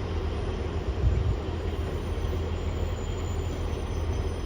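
Diesel passenger train running through the level crossing, a steady low engine and wheel rumble. Faint high-pitched squeals start to creep in during the second half.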